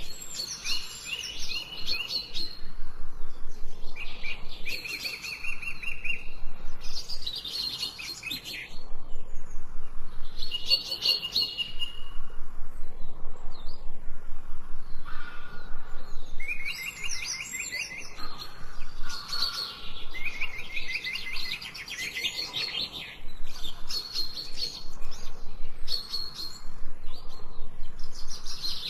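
Songbirds singing: high, fast trilled phrases of a second or two each, repeated with short pauses between.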